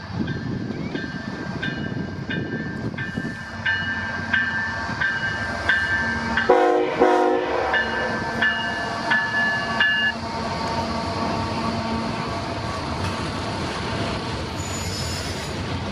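CPKC freight train passing close by, led by a GE Tier 4 GEVO diesel locomotive, with a steady rumble of rolling stock. A bell rings steadily, about once every 0.7 s, for the first ten seconds, and the locomotive gives one short horn blast about six and a half seconds in.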